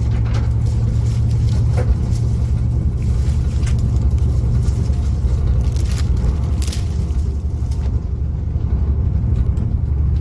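Steady low rumble of vehicles, with a few faint clicks over it.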